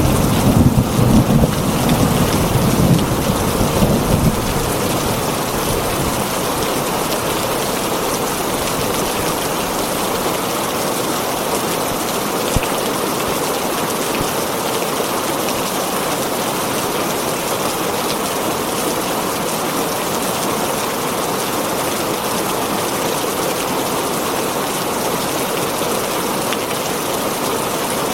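Heavy rain drumming steadily on a tin roof, with a low thunder rumble that dies away over the first few seconds.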